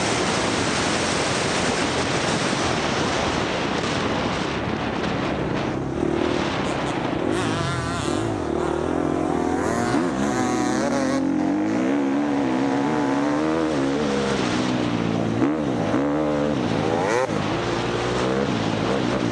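Dirt bike engine revving up and down over and over as it is ridden hard in an off-road race. It runs over a steady rush of wind and ground noise.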